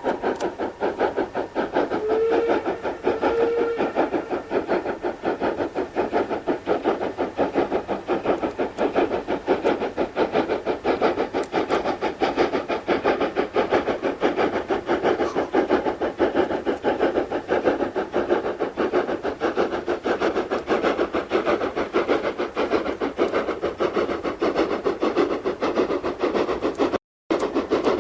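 GER N7 0-6-2T steam tank locomotive working, its exhaust beats coming in a fast, steady chuff. A brief whistle note sounds about two seconds in, and the sound cuts out for a moment near the end.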